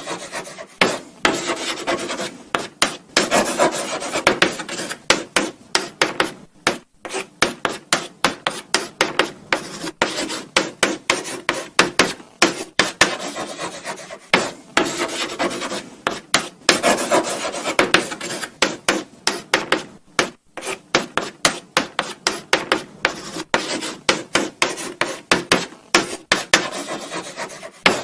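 Chalk writing on a blackboard: a quick run of short scratching strokes, with a few brief pauses between words.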